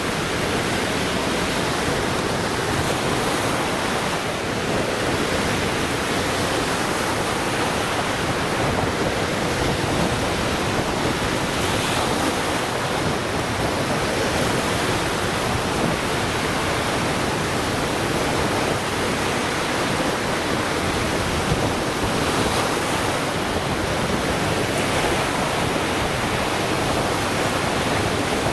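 Lake Michigan waves breaking on the shore, a steady wash of surf with slow swells and no distinct single crashes.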